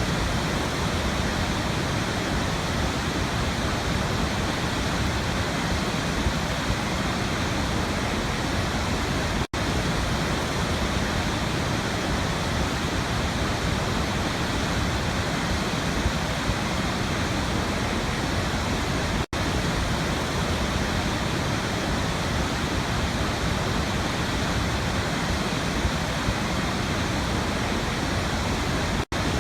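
Waterfall rushing in a steady, even roar of falling water, broken by a momentary dropout about every ten seconds.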